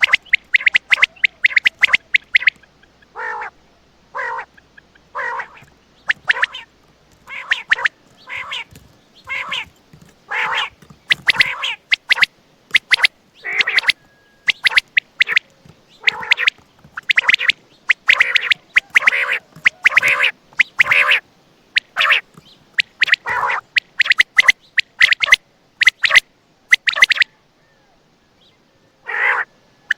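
Common quail (Coturnix) calling over and over: quick clusters of sharp, high notes alternating with lower single notes, with a short pause near the end.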